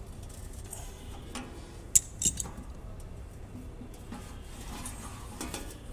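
Hard parts of a hose reel drum being handled and fitted together by hand: a few sharp clicks and clinks, the loudest two close together about two seconds in, over a low steady hum.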